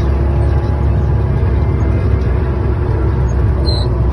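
KAMAZ truck's diesel engine running steadily while driving, a constant low drone mixed with road noise.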